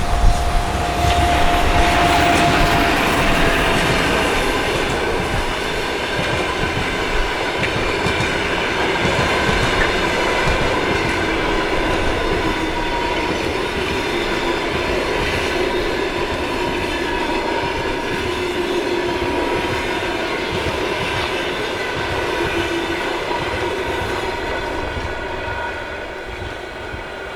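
A train rolling through a railway station, its wheels clattering over the rail joints, with thin steady squealing tones from the wheels on the rails. The sound eases slightly near the end.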